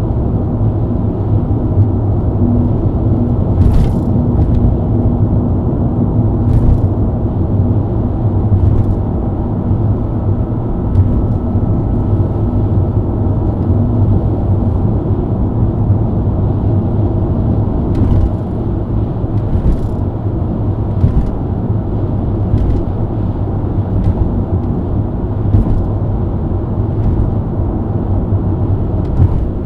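BMW E90 323i's inline-six engine and tyre/road noise while cruising at steady highway speed: a steady low drone with brief ticks now and then.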